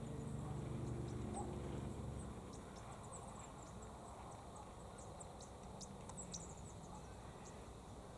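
Faint outdoor background: a low hum that fades away over the first two seconds, then scattered faint, short high-pitched chirps and ticks.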